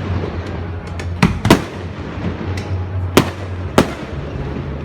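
Fireworks going off: four loud, sharp bangs, two close together about a second in and two more past the three-second mark, with lighter pops and a steady crackling hiss between them.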